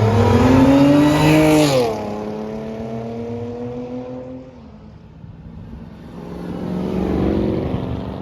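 Car engine accelerating hard as the car pulls away, its pitch climbing for a second and a half and then dropping sharply, as at a gear change or lift-off. It then runs steadier and fades out, and another engine sound builds near the end.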